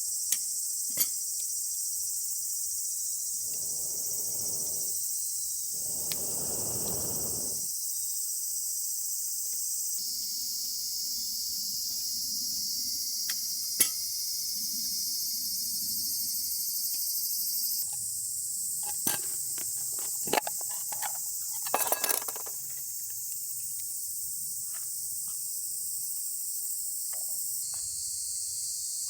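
A dense chorus of insects (crickets) shrilling steadily at a high pitch. A few sharp clicks and knocks come over it, most of them about 19 to 22 seconds in, and there are two brief rushing noises at about four and seven seconds in.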